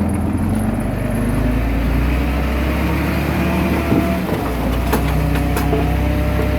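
Bulldozer's diesel engine running steadily, its low note shifting slightly a little past halfway, with a few sharp clicks in the second half.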